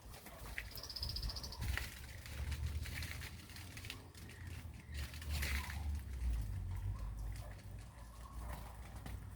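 Birds moving about with scattered faint rustles and clicks, and a brief high trill about a second in, over a low steady hum.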